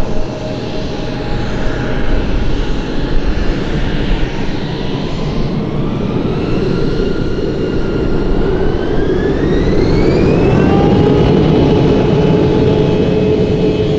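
Embraer E170 airliner's General Electric CF34-8E turbofan engines spooling up to takeoff power over a loud rumble. The whine rises in pitch about halfway through and then holds steady at the higher setting.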